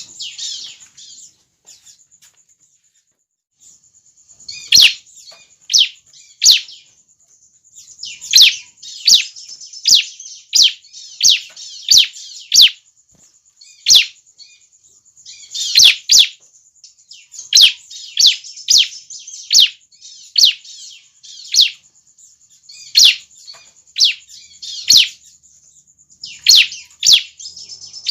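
Young bar-winged prinias (ciblek) calling: sharp, high chirps repeated in quick series, about one or two a second, with a short pause a few seconds in.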